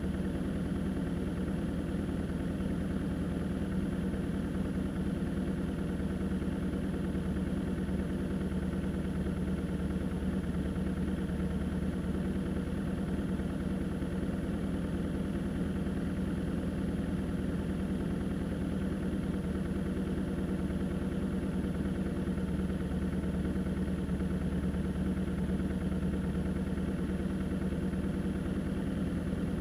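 Steady engine hum of a car, unchanging in pitch and loudness.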